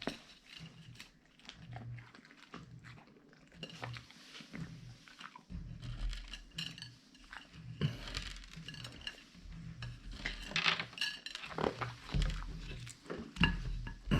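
A Siberian husky eating from a food bowl. The bowl clinks and knocks over and over, and the knocks come faster and louder in the last few seconds.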